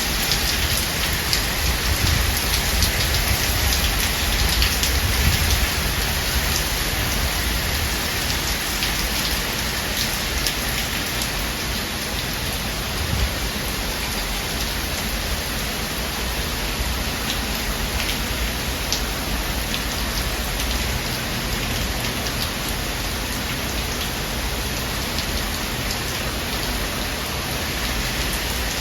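Heavy thunderstorm rain falling steadily, with many individual drops pattering and ticking on nearby surfaces. A low rumble sits under the rain during the first several seconds.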